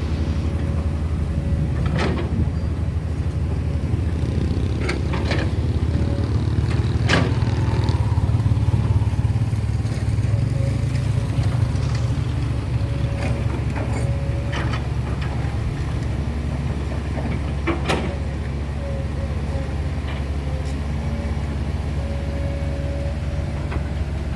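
Heavy diesel engine running steadily with a deep rumble that swells a little a few seconds in, broken by several sharp knocks.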